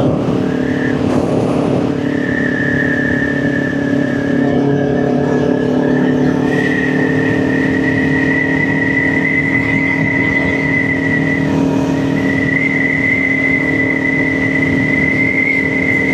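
Kawasaki Ninja 400's parallel-twin engine running at a steady cruise, heard from the rider's helmet, with wind rush and a steady high whistle over it that breaks off for a moment about two-thirds of the way through.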